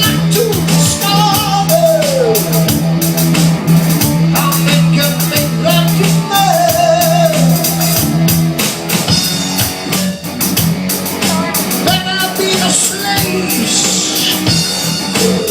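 Rock band playing: drum kit, guitar and singing. A steady low held note drops out about halfway through.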